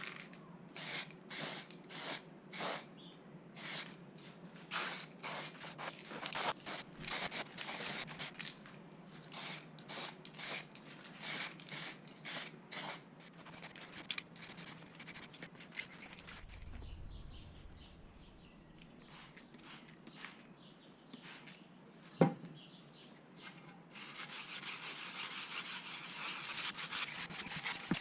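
Hand rubbing strokes on a surface, about two a second over the first half, as rust and grime are worked off an old scale's parts. The strokes then thin out, with one sharp click later on and a steady hiss over the last few seconds.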